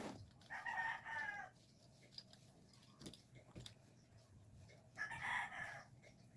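Rooster crowing twice, each crow lasting about a second, with a few sharp clicks between them.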